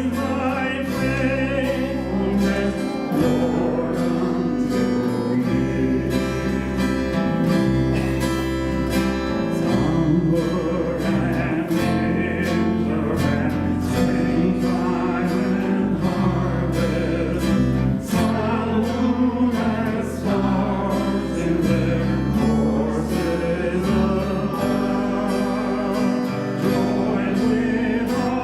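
Worship band music: strummed guitar over held bass notes, with singing.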